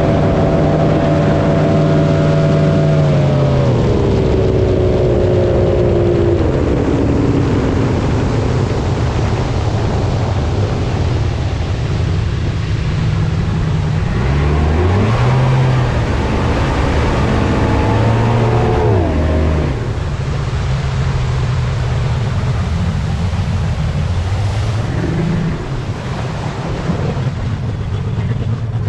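Engine running under a rush of water and wind: it slows with falling pitch about three to seven seconds in, revs up and back down around the middle, then settles into a steady rushing noise.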